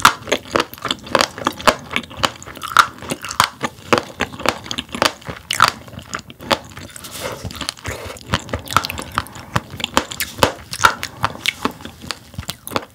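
Close-miked chewing of roe-filled sailfin sandfish: a quick, uneven run of crunchy pops and clicks as the firm eggs burst between the teeth.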